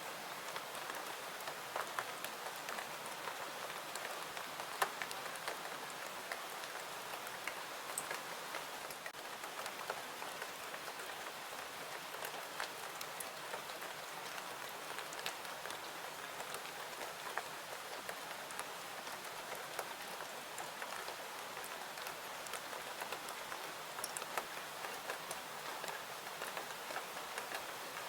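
Steady rain hiss with many scattered sharp clicks and pops.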